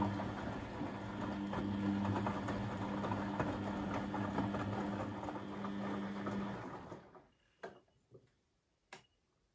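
Beko washing machine's brushed motor turning the drum, a steady hum with a slight whine, which stops about seven seconds in. Three short clicks follow near the end.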